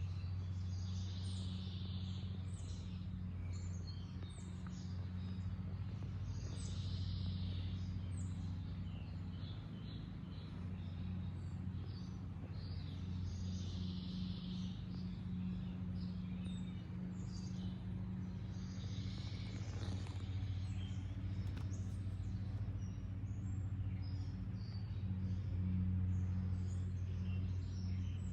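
Wild birds chirping and calling at intervals over a steady low hum.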